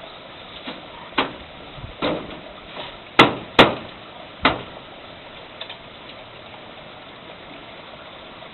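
Hammer blows on roofing during a roof-eave repair: about five sharp, irregular strikes, the two loudest close together about three seconds in, over a steady background noise.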